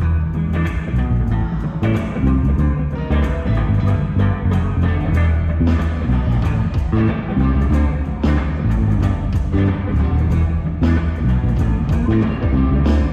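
A live band of guitar, bass guitar and drums playing a rock groove with a steady beat, with no singing.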